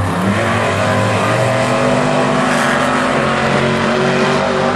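Monster truck engines, supercharged big-block V8s, running hard at high revs, a loud steady engine note with little change in pitch.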